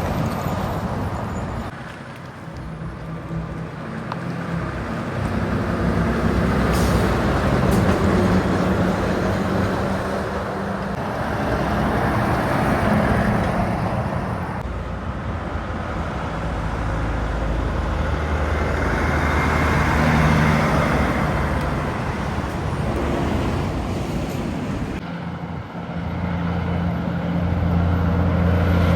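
Heavy trucks and other traffic passing on a highway: diesel engines and tyre noise swell and fade several times, and a low engine note grows strong near the end as another truck comes close.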